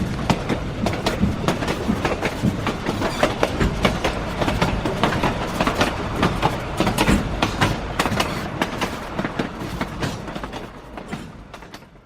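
Model ore train running along layout track, its wheels clicking rapidly and irregularly over the rail joints over a steady rumble. The sound fades out near the end.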